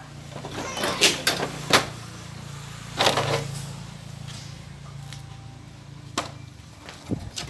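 Scattered knocks and clicks from handling motorbike parts during disassembly: several in the first two seconds, a louder one at about three seconds and a few near the end, over a steady low hum.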